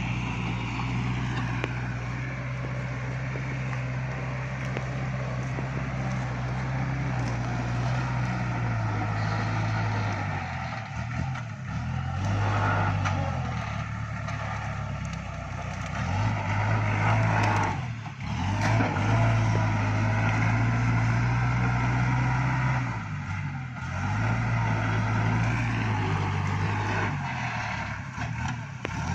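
Iseki NT554 tractor's diesel engine running under work, its speed dipping and picking up again several times as the grab loader is worked.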